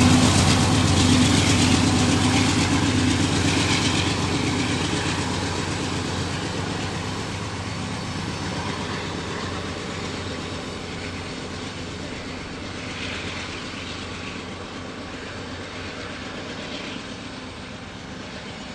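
Freight train led by a diesel locomotive rolling away, its engine hum and wheel noise fading steadily into the distance.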